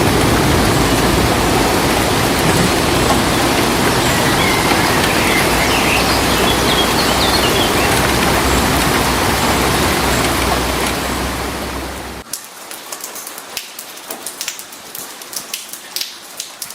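Dense, steady rush of heavy rain, with a few faint chirps in it, that cuts off abruptly about twelve seconds in to lighter rain, where individual drops tick sharply on a surface.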